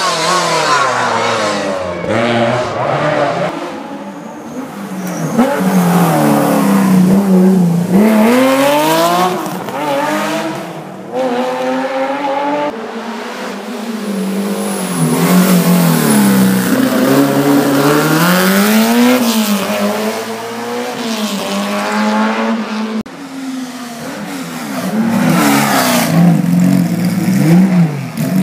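Rally cars at full speed on a stage, engines revving hard and dropping again and again through gear changes and braking for corners.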